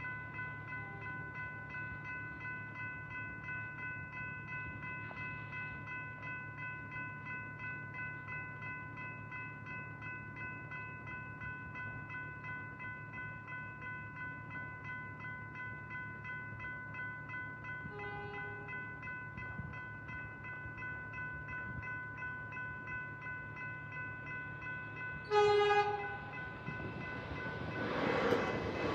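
Level crossing electronic bell (E-bell) ringing in a fast, steady, regular pulse. A train horn sounds briefly about two-thirds of the way through, then a louder horn blast a few seconds before the end, followed by the rising noise of the approaching train.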